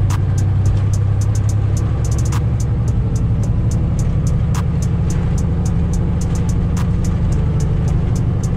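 Semi truck's diesel engine running with a steady low drone, under music with a quick ticking hi-hat beat and a heavier hit about every two seconds.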